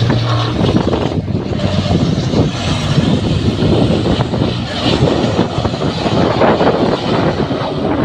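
Super race trucks' engines running hard as the trucks race past.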